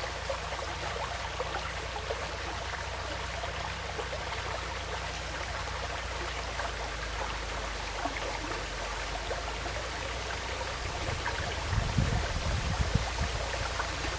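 Forest stream flowing steadily, an even rush of water. About twelve seconds in, low, irregular rumbles join it.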